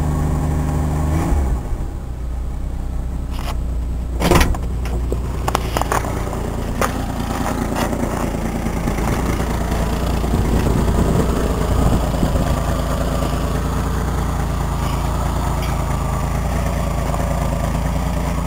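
1985 Jeep Grand Wagoneer's V8 running, heard from inside the cab with a newly fitted muffler, much more quiet now. The engine note changes about a second in, a single clunk comes about four seconds in, then the engine settles into a steady low rumble.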